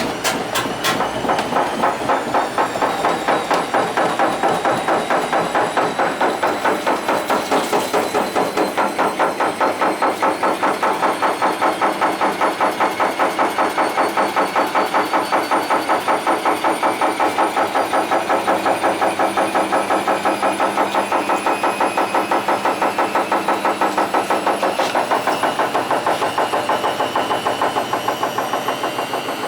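Candy Energa 735 washing machine on its spin cycle: the drum hums and rattles with a rapid, even pulsing, and a high whistle rises slowly in pitch. The noise is typical of worn drum bearings, which the uploader's tags point to.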